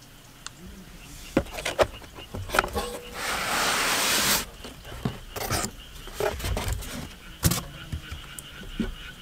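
Gear being handled: a handful of sharp knocks and clatters, with about a second of loud rustling or sliding noise just after the third second. A faint, steady insect chirring comes in during the second half.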